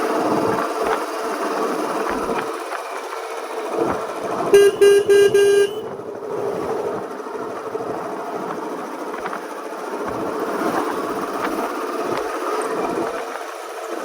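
Royal Enfield Standard 350's single-cylinder engine running steadily on the move, with a horn giving four quick beeps about four and a half seconds in.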